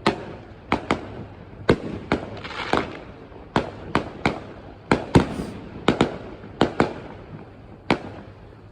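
Fireworks show: a fast, irregular string of sharp bangs, about two a second, with a short burst of crackling a few seconds in.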